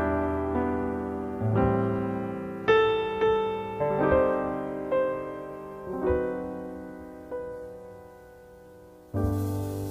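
Slow solo piano music: single notes and chords struck and left to ring and fade. The playing thins out to a quiet lull, then picks up again near the end, now with a hiss underneath.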